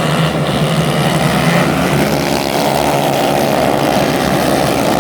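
Racing kart engines running together in a steady drone that swells slightly about two seconds in.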